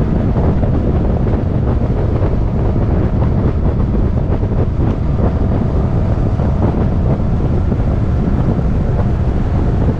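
Wind buffeting a camera microphone: a loud, steady rumble with no let-up.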